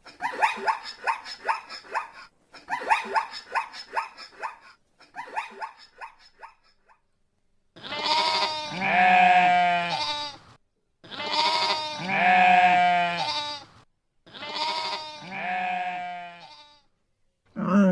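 Goat bleating: three long, loud bleats of about two and a half seconds each, in the second half. Before them come three runs of quick, short animal calls.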